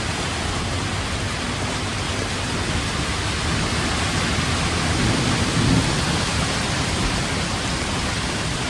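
Heavy thunderstorm rain falling steadily, a dense even hiss, with a low rumble of thunder swelling briefly about five seconds in.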